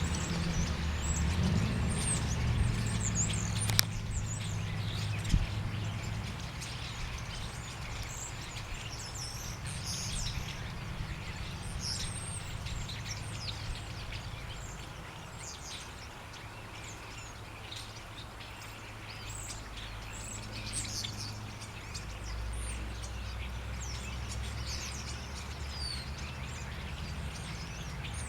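Small birds, chickadees, calling with many short high chirps and tweets scattered throughout, over a steady low rumble.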